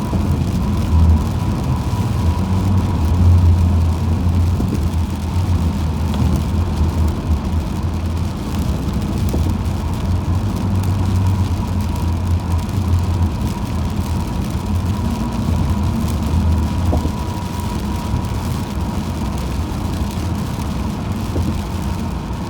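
Car driving at speed on a highway: a steady low rumble of tyres and engine with a light hiss of road and wind noise.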